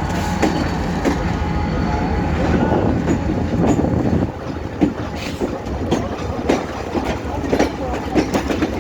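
Passenger train of new Russian-built coaches moving slowly away from the station, a steady low rumble with wheels clacking over rail joints and points, and a little wheel squeal. The knocks come irregularly and grow sharper about halfway through.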